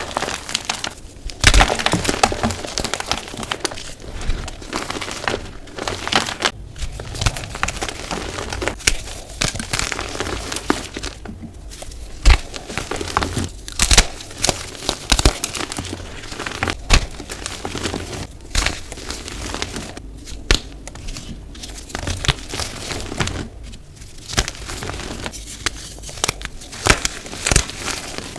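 Dyed gym chalk being crushed and crumbled: a dense, irregular crunching with many sharp cracks and snaps.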